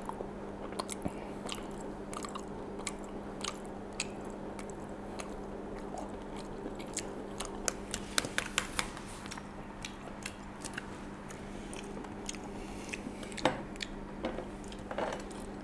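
A person chewing soft baked pasta eaten off a spoon, with many short wet clicks and smacks, busiest about eight to nine seconds in. A steady low hum runs underneath.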